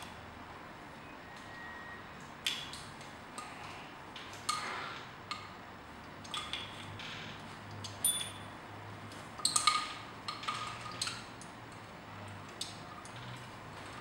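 Scattered short clicks and taps, about a dozen, some with a brief high squeak, the loudest cluster a little past the middle.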